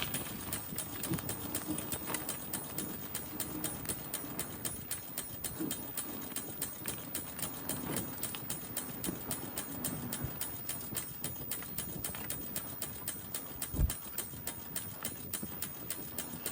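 Bicycle being ridden, making a steady rhythmic clicking. This is an annoying mechanical noise from the bike that needs maintenance. A single low thump comes about 14 seconds in.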